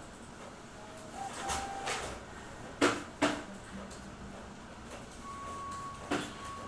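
Sharp clacks and knocks from a Xerox WorkCentre 7855 copier: two loud ones close together in the middle and another near the end, with softer ones before them. A faint steady tone starts late on.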